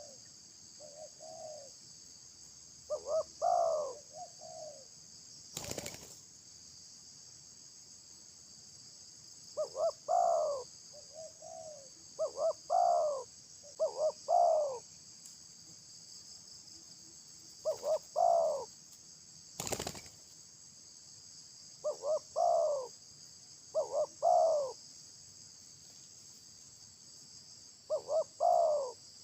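A dove cooing in short phrases of a few notes, repeated every few seconds, over a steady high-pitched drone of insects. Two sharp clicks come about six and about twenty seconds in.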